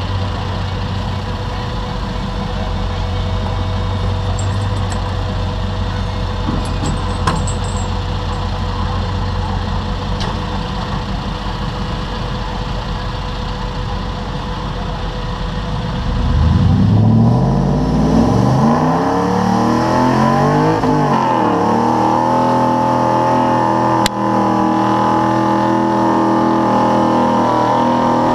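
2010 Nissan Titan's 5.6-litre VK56 V8 running steadily at low revs, then revving up hard about 16 seconds in. The pitch climbs and wavers for a few seconds, then holds high and steady as the pulling truck works under load against the sled.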